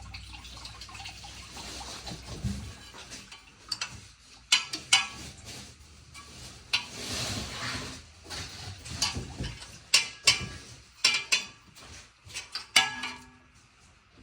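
Metal hand tools and engine parts clinking and clanking during an engine teardown: a string of sharp irregular clanks, some ringing briefly, with a rasping noise lasting about a second midway.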